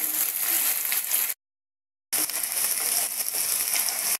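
Chopped onions and ginger-garlic paste frying in hot mustard oil, sizzling steadily while stirred with a wooden spatula in a nonstick wok. The sound cuts out completely for under a second a little past halfway, then resumes.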